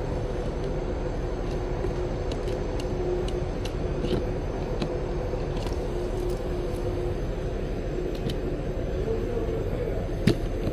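HVAC air handling unit supply fan running: a steady rush and hum with two constant tones, scattered light ticks, and one sharper click near the end.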